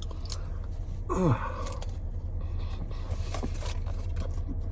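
Chewing and mouth noises of a person eating fast food, small clicks and scrapes, over the low steady hum of the car he sits in. About a second in, a short falling 'mmm' of enjoyment.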